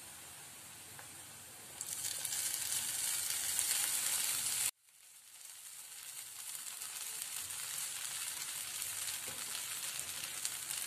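Chopped onion, peanuts and green chillies sizzling in hot oil in a kadhai. The sizzle turns louder about two seconds in and cuts off abruptly near the middle, then slowly builds back up as soaked poha (flattened rice) fills the pan.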